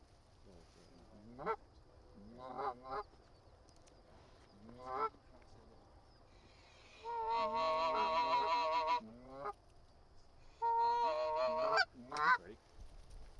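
Canada geese honking: single short rising honks a second or two apart, then two stretches of several geese calling together, each lasting about two seconds.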